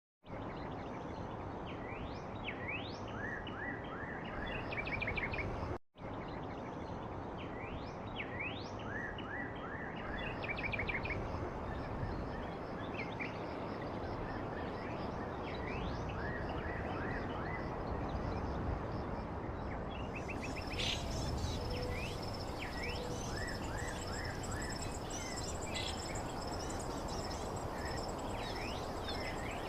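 Outdoor nature ambience: small birds chirping in quick rising notes and short series over a steady noise bed, with a high steady insect trill joining about two-thirds of the way in. The sound cuts out for an instant about six seconds in.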